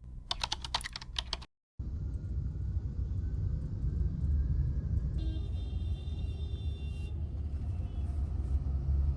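Brief end of ukulele music, then after a short cut a steady low rumble of a moving vehicle heard from inside, with faint clicking and rattling over it and a faint high tone for a couple of seconds near the middle.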